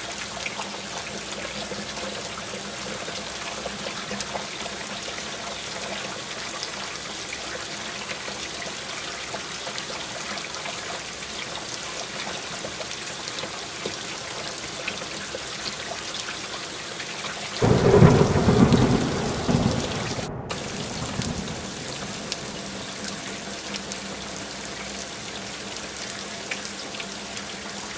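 Steady rain falling, an even hiss, with one loud low roll of thunder a little past halfway through that rumbles on for about three seconds before fading back into the rain.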